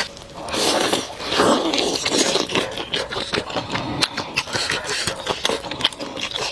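Close-miked eating sounds: chewing with many quick, wet mouth clicks and smacks.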